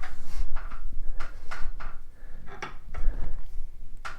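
Irregular metallic clicks and knocks as a barrel lap is worked back out of a Harley-Davidson K-Model crankcase main bearing bore, where it had seized tight.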